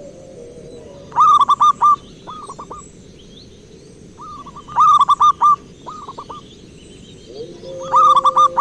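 Zebra dove (perkutut) cooing: three loud phrases about three and a half seconds apart, each a quick run of notes followed by a few drawn-out ones.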